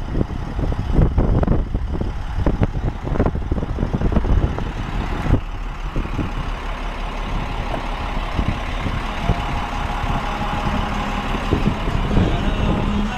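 Car carrier tow truck running, with irregular low thumps through the first half that settle into a steadier sound with a faint held tone in the last few seconds.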